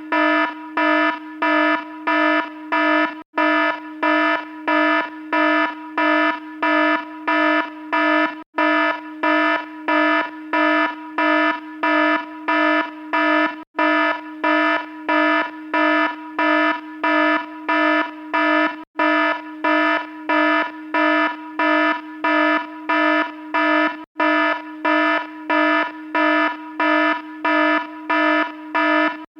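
An electronic alarm sounding in a continuous run of quick, evenly spaced buzzy beeps, with a very short break about every five seconds.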